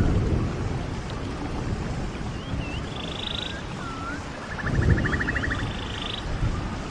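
A running stream, with low surges in the water sound near the start and about five seconds in, and birds calling over it: short swooping whistles and rapid buzzy trills, several times.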